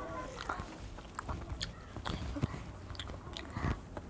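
A boy chewing a mouthful of rice and fish curry eaten by hand, with scattered short wet mouth clicks and smacks.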